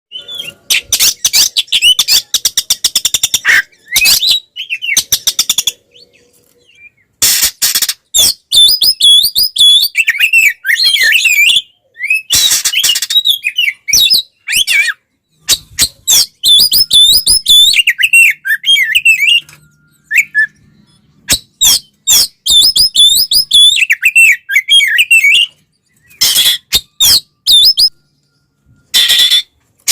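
Oriental magpie-robin (kacer) singing loudly in an agitated 'fighting' style. Bursts of rapid harsh rattling notes alternate with fast, varied whistled phrases, with brief pauses between bouts.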